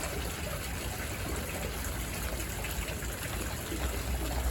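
Steady rush of falling and splashing water from a fountain, with a low rumble underneath.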